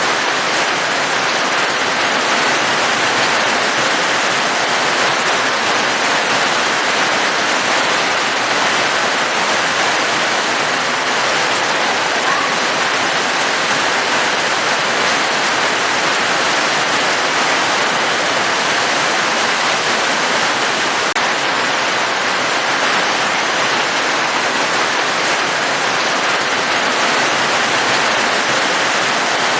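Steady heavy rain: a dense, even hiss that holds at one level throughout, with no single drops standing out.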